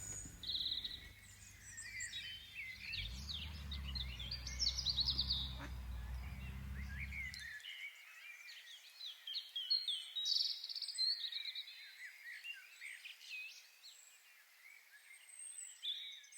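Birdsong: several small birds chirping and trilling in quick, overlapping short calls. A low rumble underneath stops abruptly about seven and a half seconds in.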